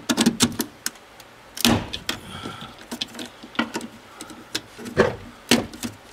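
Scattered sharp clicks, knocks and rattles of hands working plastic wiring plugs loose in a pickup's door and dash wiring, with a short squeak about two seconds in.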